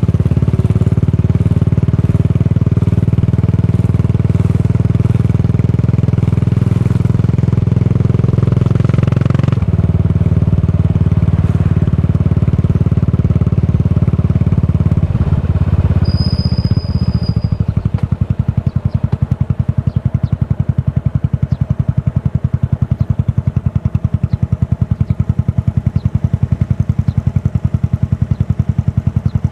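Yamaha SR400 single-cylinder engine through a Goods tapered-cone slip-on muffler, running steadily at raised revs, then dropping a little over halfway through to a lower idle with evenly spaced exhaust pulses.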